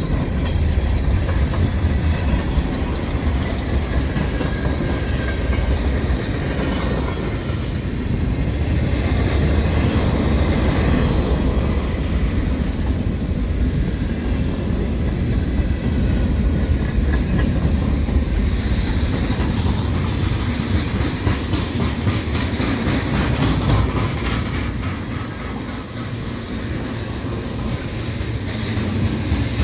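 Freight cars of a Canadian National mixed freight (boxcars, hoppers and tank cars) rolling past: a steady rumble of steel wheels on rail with the clickety-clack of wheels over rail joints.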